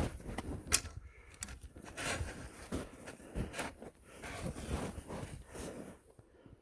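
Footsteps: a person walking, with irregular scuffs and knocks that fade out near the end.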